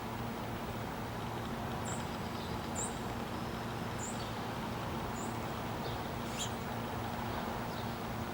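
Short, high bird chirps, about one a second from two seconds in, over a steady outdoor background rumble and a low hum.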